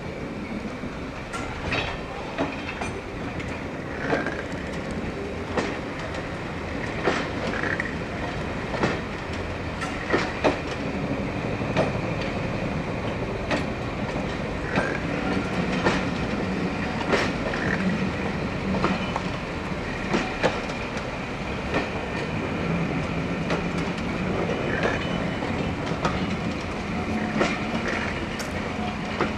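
Train running along the track with a steady rumble and hum, its wheels clicking over rail joints about once a second.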